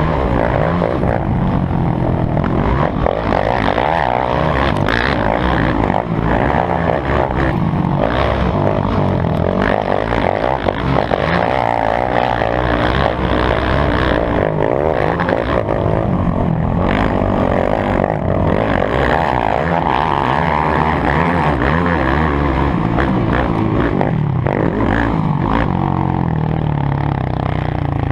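Motocross dirt bike engines running hard, their pitch rising and falling with the throttle throughout.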